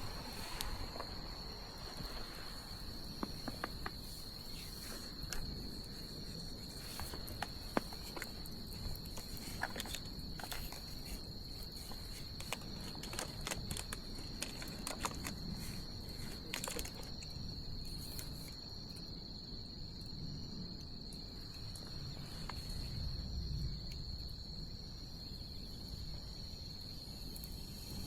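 Wood bonfire crackling with irregular sharp pops, the loudest about eight seconds in, over a steady high insect trill, likely crickets, and a low rumbling hiss.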